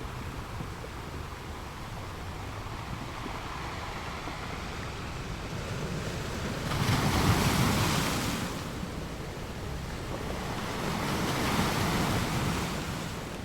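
Surf breaking on the shore: a steady rush of waves that swells louder twice, about seven and eleven seconds in.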